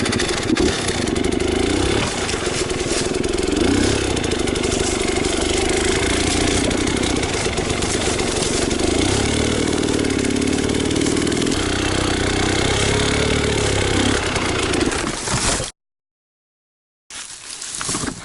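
Enduro motorcycle engine revving hard, its pitch rising and falling as the rider attempts to ride the bike through a difficult section. The sound cuts off abruptly near the end and comes back much quieter.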